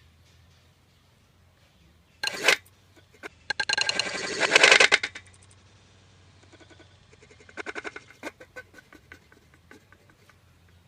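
An animal's rapid, high-pitched calls: a short burst, then a fast chattering run of calls lasting about a second and a half, then a quieter run of calls and clicks near the end.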